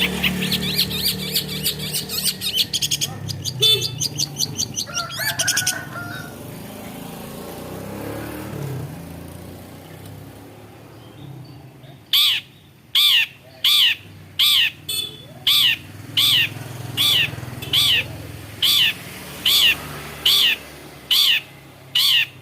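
Long-tailed shrike singing: a fast, high chattering for the first few seconds. After a quieter pause about halfway, it gives a long run of loud, sharp downward-sweeping calls, evenly spaced a little over one a second.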